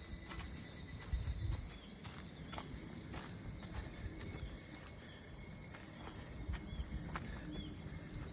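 Steady high-pitched insect chorus that swells a little about three seconds in, with faint scattered clicks and a low rumble underneath.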